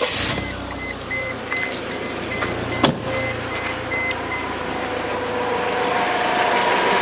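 Mercedes-Benz W202 C200's four-cylinder engine idling steadily just after starting. An intermittent high electronic beep repeats over the first few seconds, and a single sharp click comes about three seconds in.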